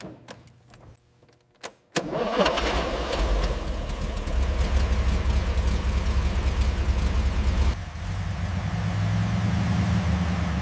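An engine starting: a few clicks, then about two seconds in it catches and runs with a low rumble and rapid ticking. Near the end it settles into a steadier, lower hum.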